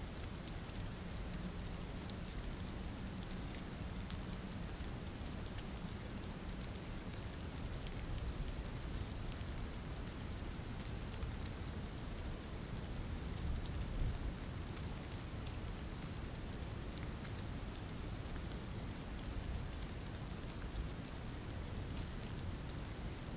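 Steady rain falling, with the fine patter of individual drops.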